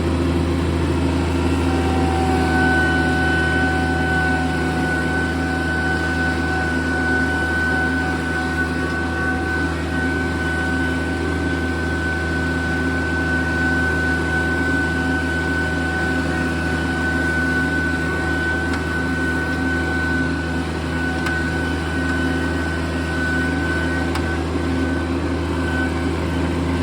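Kioti compact tractor's diesel engine running steadily under a working load while levelling ground, with a steady high whine joining about two and a half seconds in.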